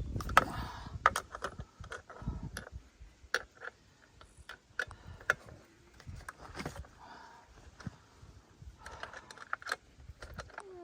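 Irregular small metallic clicks and clinks as a chainsaw is worked on by hand, its loose chain and cover parts handled and knocked against one another.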